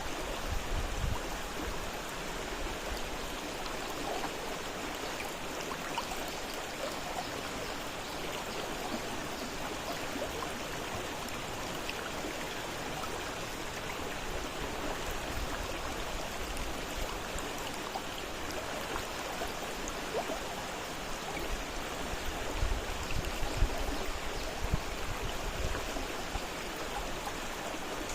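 A fast-flowing river rushing steadily, with a few brief low rumbles in the second half.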